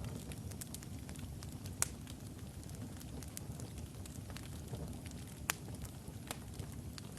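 Wood logs burning in a fireplace: a steady low rumble of flame with sharp crackles and pops scattered through it, the two loudest pops about two seconds in and about five and a half seconds in.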